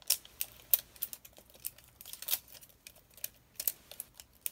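Light, irregular plastic clicks and taps from handling an LOL Surprise ball and its packaging, a dozen or so sharp ticks at uneven intervals.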